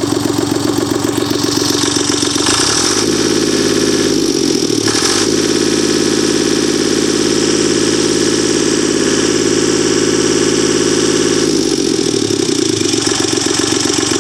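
Deutz F3M2011 three-cylinder diesel engine running. It idles, revs up about three seconds in, holds at a higher speed, and drops back to idle near the end.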